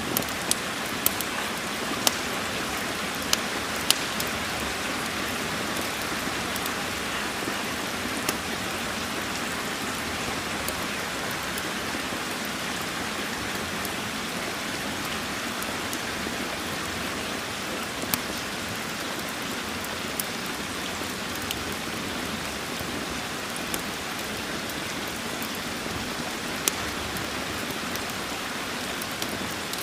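Steady rain falling, with scattered sharp pops and crackles from a wood fire, several close together at first and then only now and then.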